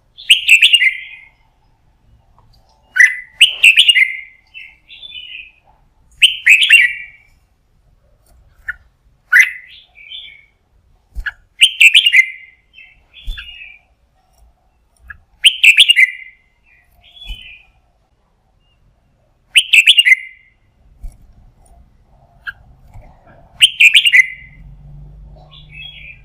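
Red-whiskered bulbul singing: short, loud, fluty song phrases, about eight of them, each a few seconds apart. It is a lure bird's song, used to call wild bulbuls in to fight.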